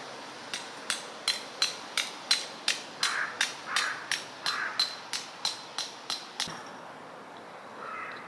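A hammer driving a metal tent stake into the ground: about eighteen quick strikes with a metallic ring, roughly three a second, stopping about six and a half seconds in.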